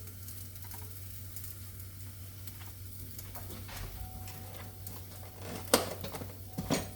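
Food sizzling in a frying pan over a steady low hum, with a sharp knock about six seconds in and a lighter one shortly after.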